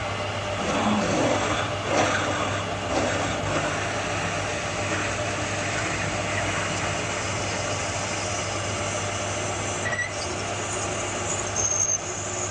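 Workshop machinery running steadily with a constant low hum, and a brief high-pitched squeal near the end.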